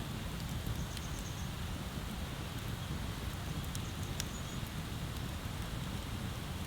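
Wood bonfire crackling, with scattered sharp pops about a second in and again about four seconds in, over a steady low rushing background.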